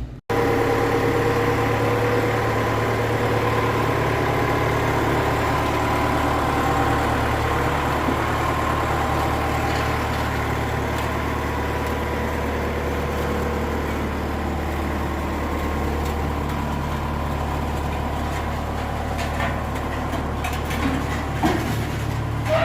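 Engine of a towing vehicle or tractor running steadily at low speed, pulling a non-running old tractor. A few light knocks come near the end.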